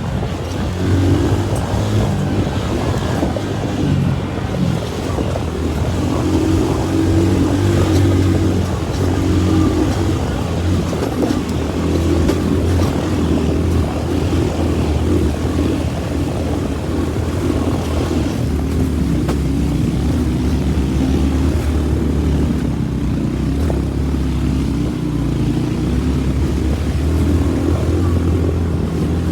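Motorcycle taxi's engine running under load on a steep uphill ride, its note rising and falling with the throttle.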